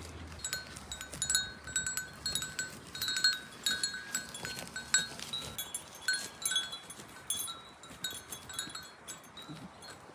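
Small metal bells on grazing goats clinking irregularly, many short ringing strikes at a few fixed pitches as the animals move their heads to feed.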